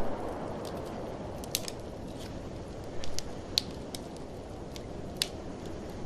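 Wood fire in a fireplace crackling, with several sharp pops, the loudest about three and a half and five seconds in, over a steady rush of blizzard wind.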